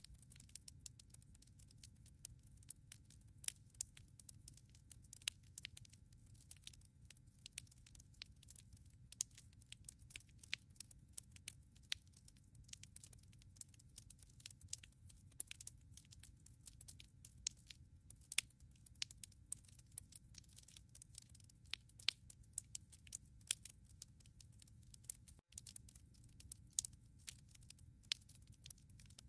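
Wood fire crackling in a fireplace: many sharp, irregular pops and snaps over a faint steady low rumble.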